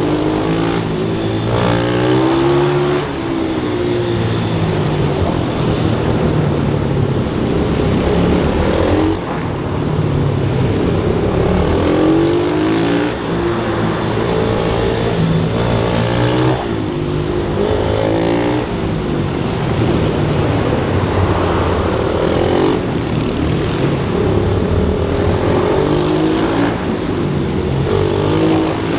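Pit bike engines lapping a track, revving high with their pitch climbing through the gears again and again, with short drops on gear changes and throttle lifts.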